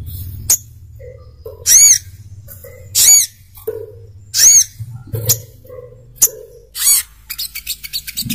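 Brown-throated sunbird calling: loud, sharp, high chirps about once a second, then a quick run of short notes near the end, over a faint low hum.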